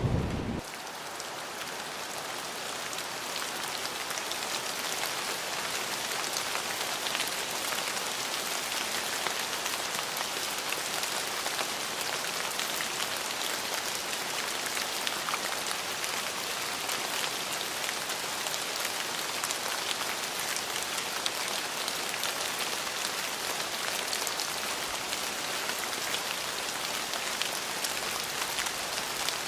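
Steady rain falling, an even hiss with fine pattering drops. A low thunder rumble cuts off abruptly about half a second in.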